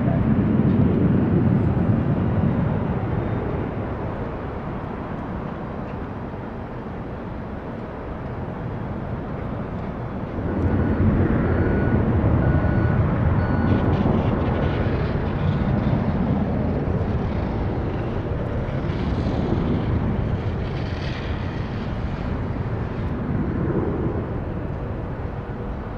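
Jet airliner engine noise: a loud, steady rumble that eases off and then swells sharply about ten seconds in.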